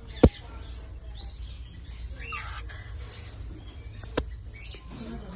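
Cage birds chirping now and then, with a sharp click just after the start, the loudest sound, and a fainter click about four seconds in.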